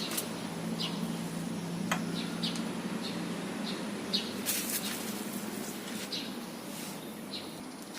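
Small birds chirping repeatedly in short, high notes, over a steady low hum, with a few sharp clicks and a brief hiss about four and a half seconds in.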